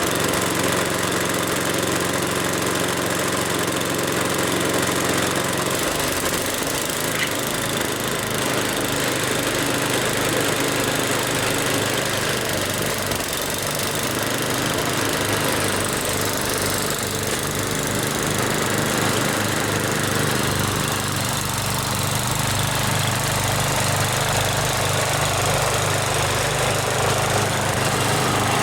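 Snowblower engine running steadily; its note shifts and wavers about six seconds in, then evens out again in the second half.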